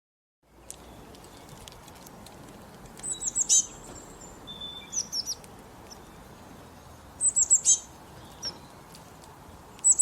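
Songbird calling in short bursts of quick, high, downward-sweeping notes, three bursts about four seconds apart, with a few single chirps between them, over faint steady background hiss.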